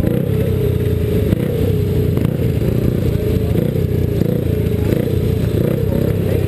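Speedway motorcycle engine running at low revs as the bike rolls slowly back toward the pits, heard up close from the rider's helmet camera; a steady rumble with a slightly wavering pitch.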